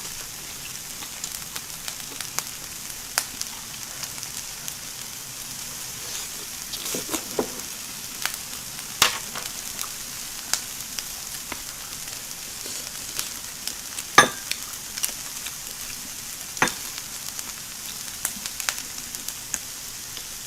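Shrimp, vegetables and mushrooms sizzling on an electric tabletop grill: a steady hiss with scattered sharp pops and clicks, the loudest about fourteen seconds in.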